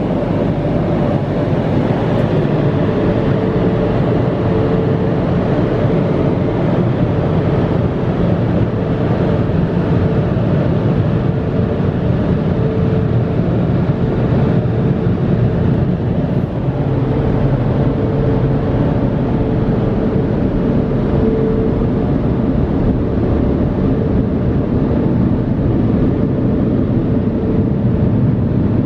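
LaserWash touchless automatic car wash machinery running loudly and steadily, with a constant hum over dense rushing noise.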